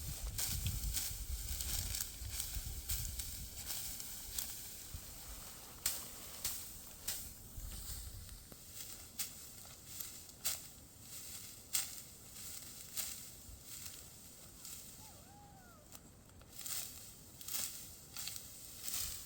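Dry wheat straw crunching and crackling in a regular rhythm, about one to two crackles a second, with a low rumble in the first few seconds.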